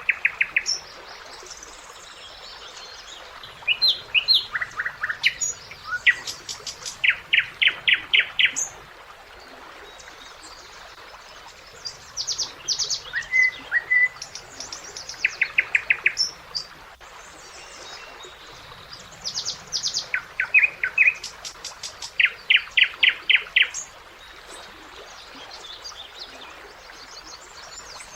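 Nightingale singing: phrases of rapidly repeated high notes a few seconds long, with pauses of several seconds between them.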